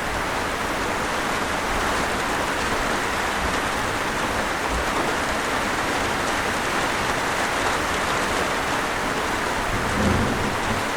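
Steady rain, a dense, even hiss of falling drops, with a brief low thump near the end.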